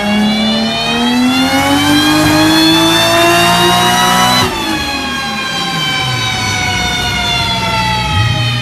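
Turbocharged Toyota Supra engine pulling hard, its pitch rising steadily for about four and a half seconds. The throttle then snaps shut and the revs fall away steadily.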